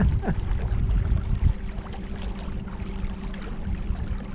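Battery-powered electric trolling motor humming steadily over a low rumble of wind and water.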